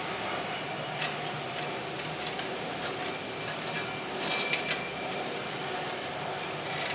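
Metal parts clinking and ringing several times over a steady machine hum, with the loudest cluster of clinks about four to five seconds in.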